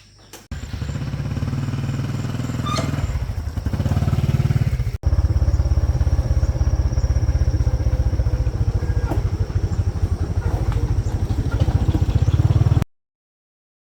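A small engine starts about half a second in and runs with an even, fast chugging beat, with a momentary break about five seconds in, then cuts off suddenly near the end.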